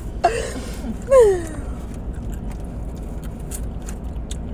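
Small chewing clicks from eating crunchy chicken wings over a steady low rumble inside a car. About a second in, a short vocal groan falls in pitch and is the loudest sound.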